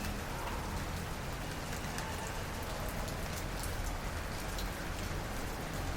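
Steady rain falling on a moving car, the drops ticking over an even hiss, with a low road and engine rumble underneath.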